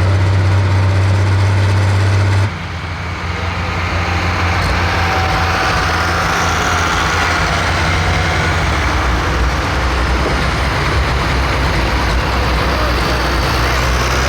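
Turbocharged diesel engine of a pro stock pulling tractor running loud. The sound changes abruptly about two and a half seconds in, and a rising whine then builds over the next few seconds.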